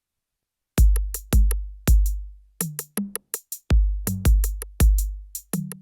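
Electronic drum-machine beat starting about a second in: deep booming kick drums with long low tails, crisp hi-hat-like ticks between them, and a few short low pitched notes.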